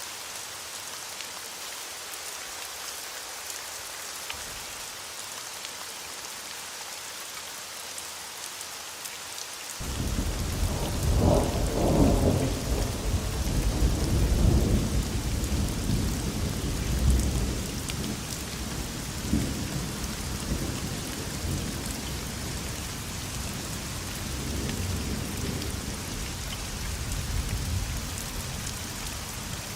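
Thunderstorm: steady rain falling, then about ten seconds in a thunder rumble breaks in suddenly, loudest over the next several seconds and rumbling on more softly under the rain.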